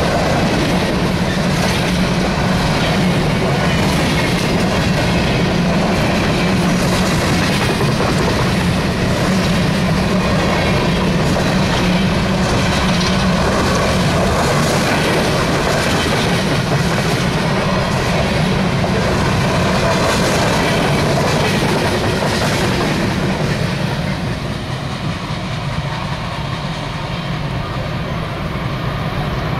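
Empty open-top hopper cars of a freight train rolling past close by, a steady rumble with the wheels clicking over the rail joints. About 24 seconds in the last car goes by and the sound drops as the train moves away.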